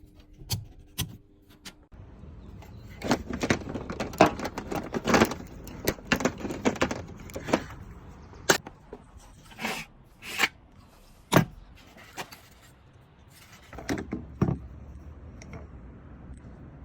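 Irregular metallic clinks, knocks and jangling of handled hard objects. They are densest in the first half and followed by a few single sharp knocks.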